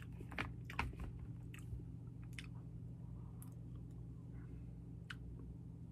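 A person chewing and biting sushi close to the microphone: soft wet mouth clicks and smacks, several in the first second and then scattered ones.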